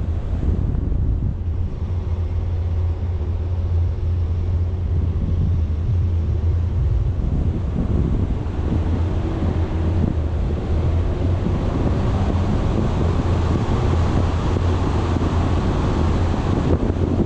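Wind buffeting the microphone of a camera on a moving vehicle, over a steady low engine drone with faint humming tones; the hiss grows somewhat stronger in the second half.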